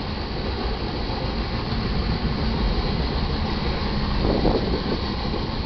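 Loaded iron ore cars rolling past on the rails with a steady heavy rumble of wheels on track, and a brief louder burst of noise about four seconds in.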